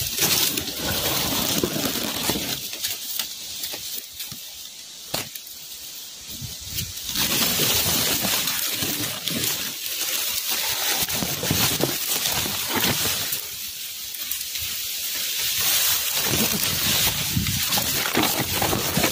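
Strong wind gusting, rushing through foliage and buffeting the microphone, rising and easing in waves.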